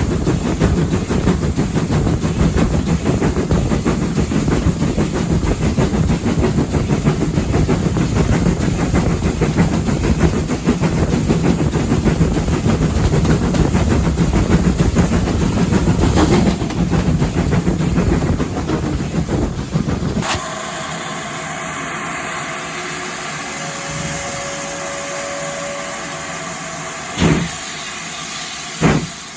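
Steam locomotive and train running on the line, a loud dense rumble with rail clatter. About two-thirds of the way in this gives way abruptly to a steady hiss of escaping steam, with a few sharp knocks near the end.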